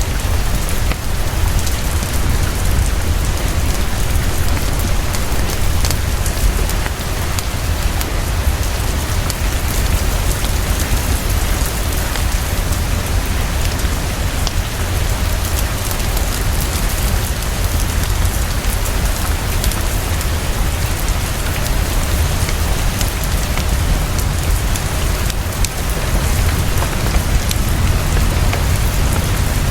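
Heavy rain falling fast and steadily, with a low rumble underneath and many fine scattered ticks of drops.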